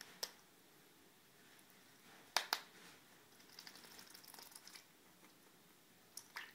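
A few light, sharp clicks and taps in a quiet, small room: one just after the start, two close together about two and a half seconds in, and two more near the end, with a spell of faint high ticking in the middle.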